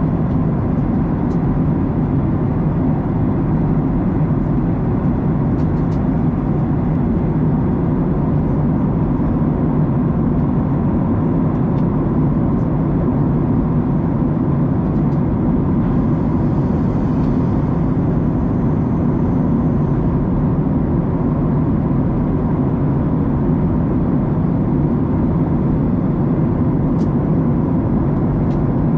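Steady cabin noise of a Boeing 737-900ER in cruise flight: an even roar of its CFM56 engines and the airflow, with a faint steady hum on top, heard from a seat behind the wing.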